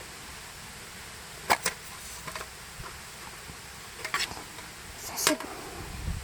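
Handling noises while fire-starting gear is set out: a few short clicks and knocks in small clusters over a faint steady hiss.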